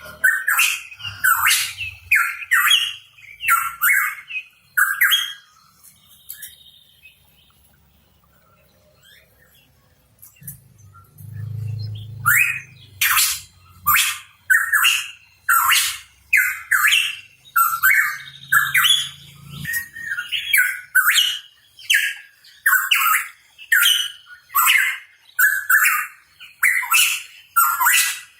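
Pitohui calling: a rapid series of short, harsh chirping notes with a clicking edge. The calls stop for several seconds about six seconds in, then resume around twelve seconds at about one and a half notes a second.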